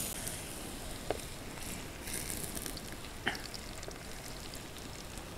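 Sliced plantains frying in hot oil in a skillet: a steady sizzle with a couple of sharp pops of spattering oil.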